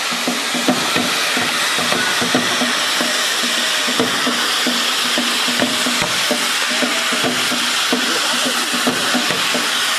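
Hand-held tezutsu bamboo-tube firework spraying its fountain of sparks, a loud steady rushing hiss. A regular low beat of about three pulses a second runs underneath.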